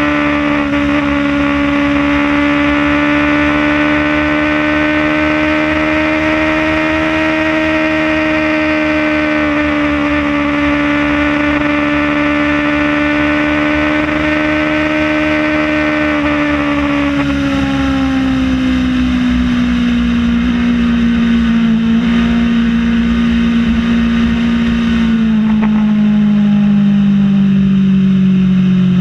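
Kawasaki Ninja ZX-6R's inline-four engine running at a steady cruise, with wind rushing. About two-thirds of the way through, the engine note begins to fall slowly as the revs drop and the bike slows.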